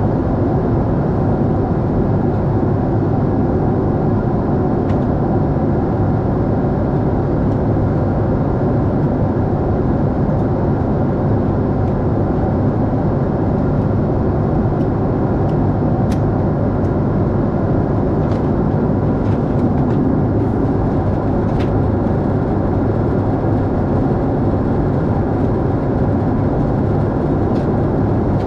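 Steady rumble of a Boeing 747-8 airliner's engines and airflow, as heard from inside the cabin, with a few faint ticks partway through.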